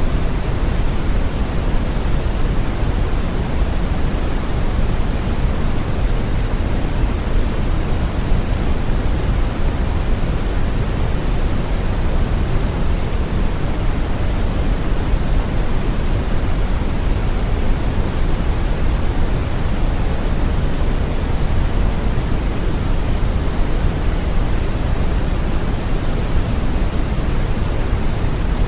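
Steady brown noise: a deep, even rushing hiss weighted to the low end, with no changes.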